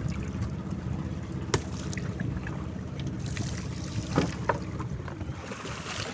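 A fishing boat's engine running steadily, with a few sharp knocks, about one and a half seconds in and again about four seconds in.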